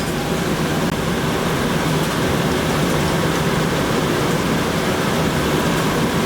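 Steady rushing noise of a busy commercial kitchen at work, even throughout with no distinct knocks or clatter.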